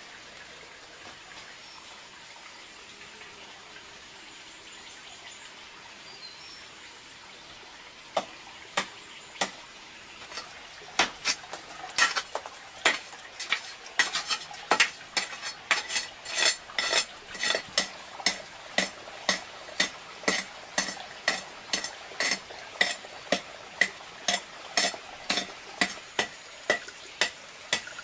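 Faint steady background hiss, then from about eight seconds in a run of sharp knocks with a slight ring, about two a second, kept up steadily.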